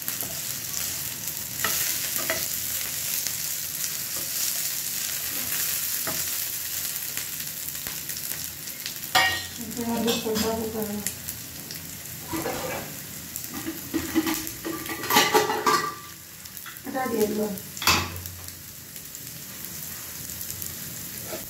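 Cubed potatoes sizzling steadily as they fry in oil in a non-stick frying pan, with a steel ladle stirring them at first. Several brief louder sounds break in through the middle and later part.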